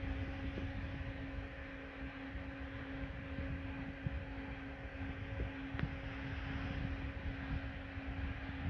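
Steady low mechanical hum over a rumbling noise, with a few faint ticks.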